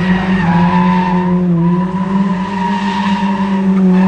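Car engine held at high, nearly steady revs through a drift, with squealing tires over it; the pitch dips slightly about a second and a half in, then recovers.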